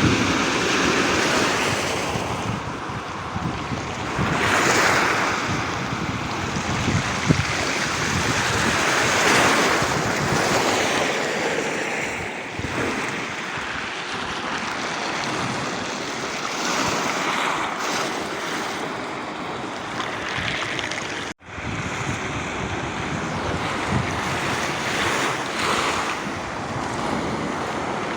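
Black Sea surf breaking on the shore, swelling and falling back every few seconds, with wind noise on the microphone.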